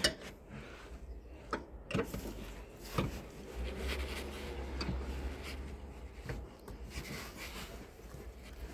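Rubbing and scraping of a thick foam insulation cover being worked loose by hand from over the rear shock mounts, with a few sharp knocks near the start, about two seconds in and about three seconds in.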